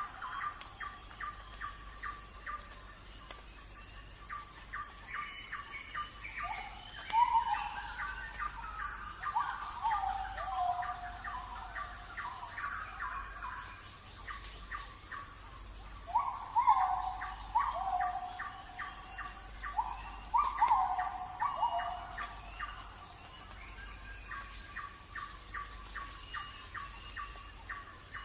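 Wild birds singing: rapid runs of short ticking notes throughout, and louder falling whistled phrases that come in groups about a third of the way in, around the middle and again past two-thirds. A steady high-pitched hum sits underneath.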